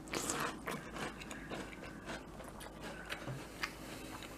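Mouthful of blueberry pancake Cap'n Crunch cereal being chewed close to the microphone: irregular small crunches, a little busier at the start.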